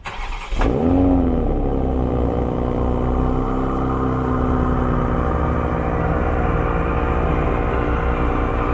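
2020 Toyota Supra (MKV) engine starting up: a quick crank and flare about half a second in that settles into a steady idle with a pulsing exhaust note.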